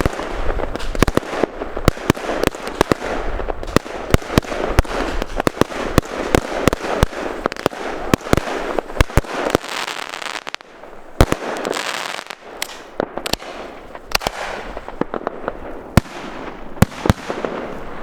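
Fireworks going off in a dense barrage: many sharp bangs a second over continuous crackling.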